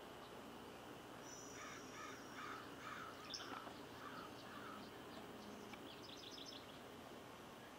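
Faint bird calls: a run of about six repeated call notes in the middle, with a thin high whistle before them and a quick series of high chirps later, over a steady background hiss.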